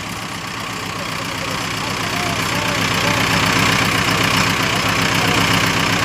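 Mahindra Arjun tractor's diesel engine running with a steady rapid beat, getting gradually louder.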